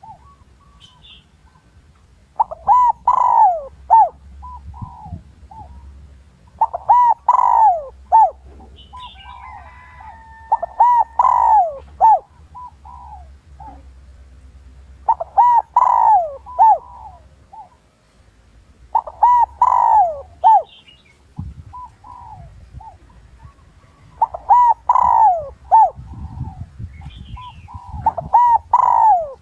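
Spotted dove cooing: a male's coo in repeated phrases of several notes, about one phrase every four seconds, seven in all. It is the challenge coo of a decoy bird, used to draw wild males in to fight.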